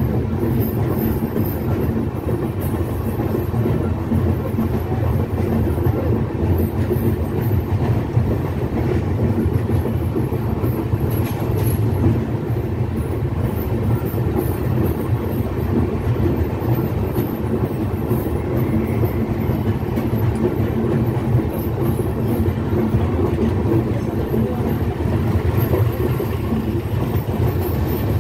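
Passenger train rolling steadily along the track, heard close to the carriage side: a continuous low rumble of wheels on rails with a faint clickety-clack.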